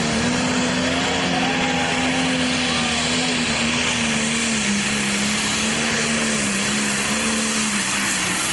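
Turbocharged diesel engine of a Pro Stock pulling tractor running hard at full throttle on a pull. Its pitch sags slowly across the run, with a thin steady high whistle above.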